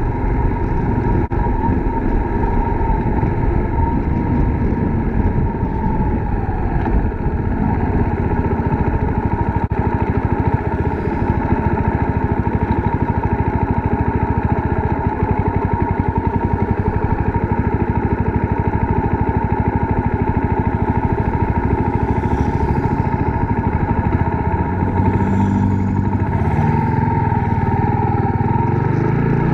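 Suzuki Grass Tracker Big Boy's single-cylinder engine running steadily, its firing pulses rapid and even, with a change in engine note near the end.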